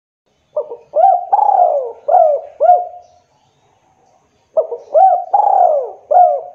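Spotted dove (tekukur) cooing: two phrases about four seconds apart, each a quick run of short arching coos with one longer falling coo in the middle.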